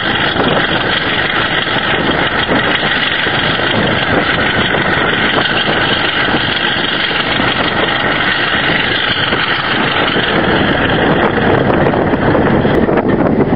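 A British Rail Class 33 diesel locomotive's Sulzer eight-cylinder engine running steadily and loudly, getting a little louder and fuller near the end.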